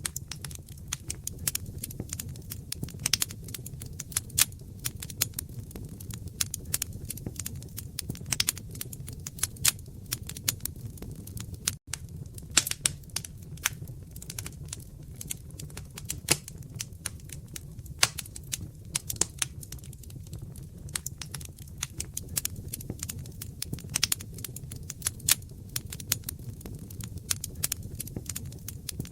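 Wood fire crackling in a fireplace: a dense, irregular stream of sharp pops and snaps over a low, steady rumble of the flames, with a momentary gap about twelve seconds in.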